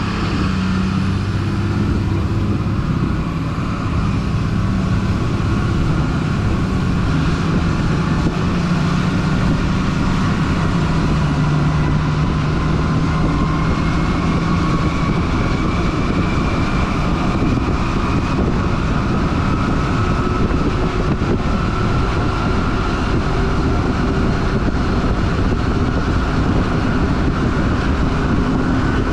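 Stewart & Stevenson M1078 LMTV military truck driving, its diesel engine running steadily under way. The engine note drops about ten seconds in, and a faint whine slowly rises in pitch after that.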